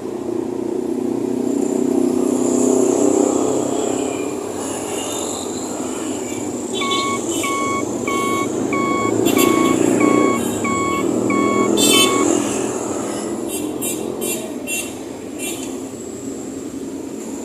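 A truck engine running steadily, with a reversing alarm beeping about twice a second for several seconds in the middle. A few sharp clicks follow near the end.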